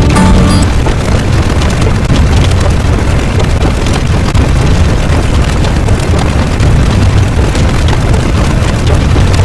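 A loud, steady rumbling noise, strongest in the low end, after a short bit of music that stops within the first second.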